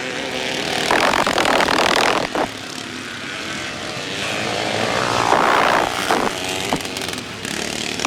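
Vintage motocross motorcycle engines revving on the track, the engine notes rising and falling, with louder surges about a second in and again around five to six seconds in.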